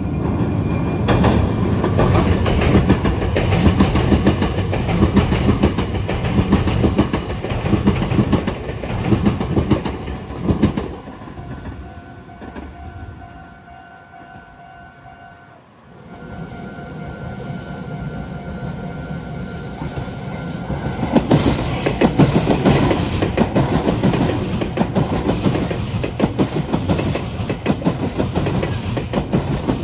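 Meitetsu electric trains passing over the Biwajima junction, wheels clattering over the rail joints and points. The first train's noise dies away about 12 seconds in, a couple of steady tones sound in the lull, then a second train comes through loudly.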